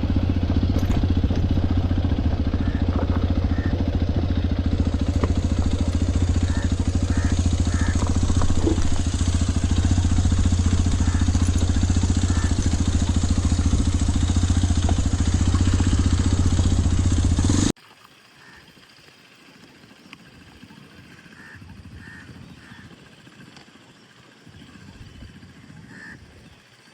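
Hero XPulse 210 motorcycle's single-cylinder engine running at a steady pace with a constant low rumble. About two-thirds of the way through it cuts off suddenly to a quiet stretch with faint, short chirps.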